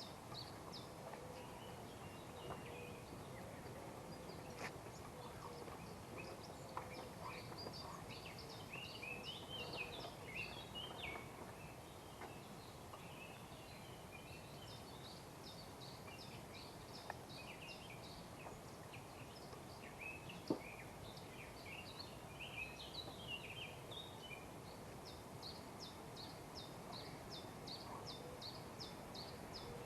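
Birds chirping and trilling continuously over a steady faint background hiss, with a few light knocks and one sharper click about two-thirds of the way through.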